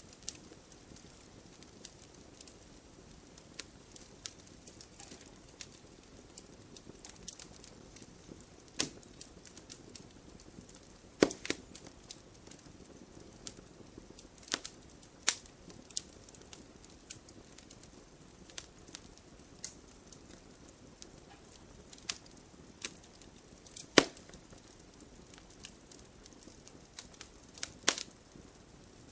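Wood bonfire crackling: irregular sharp pops and snaps over a low, steady rush of burning, with a few louder pops, the loudest about eleven and twenty-four seconds in.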